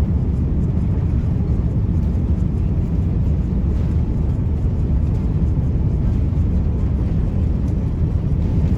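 Steady low drone of an airliner cabin in flight: jet engine and airflow noise heard from inside the plane.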